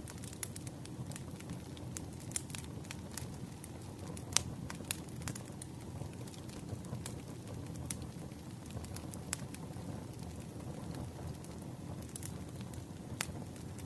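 Campfire crackling: irregular sharp pops and snaps over a steady low rush of burning wood.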